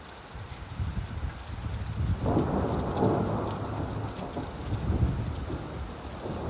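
Steady rain with a low rumble, and a roll of thunder that breaks in suddenly about two seconds in and fades away over the next few seconds.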